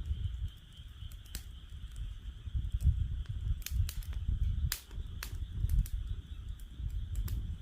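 Wood fire in a fire stand crackling, with irregular sharp pops and snaps, over a steady high-pitched chorus of frogs and a low rumble.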